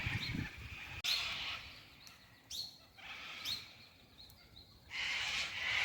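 Wild birds calling: short rising chirps repeated several times over a band of higher chatter.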